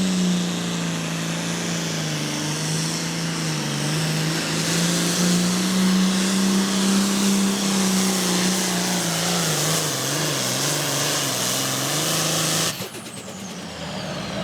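Pro Farm class pulling tractor's diesel engine running hard under load down the track, its pitch wavering as it fights the sled. About 13 seconds in the engine cuts off and a high whine falls away as it winds down.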